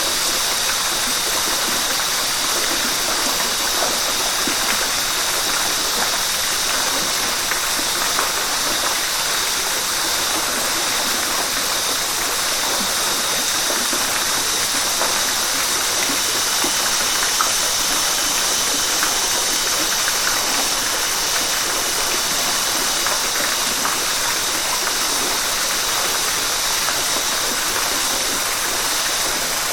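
River water flowing and rushing: a steady, even noise with no breaks, strongest in the hiss.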